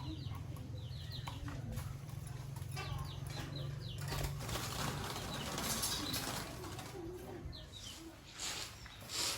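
Birds chirping in short falling calls, over a low steady hum that fades out about halfway through.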